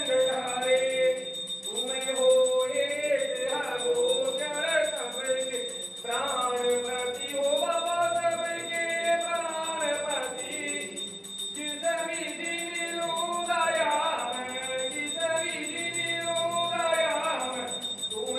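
Hindu aarti being sung by several voices in a chanted devotional melody, with a steady high ringing tone underneath.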